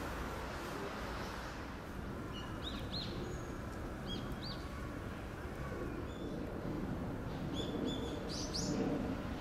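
Small birds chirping: short, high calls in little groups about two and a half seconds in, again at four seconds, and a busier cluster near the end, over a steady low background rumble.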